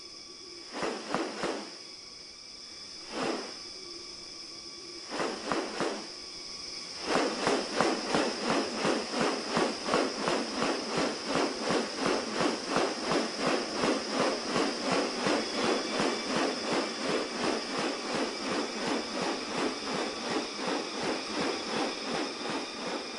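Insects drone steadily in a high, even buzz. Over it come a few short rasping outbursts, then, about seven seconds in, a fast, even series of rasping pulses, two to three a second, that runs until just before the end.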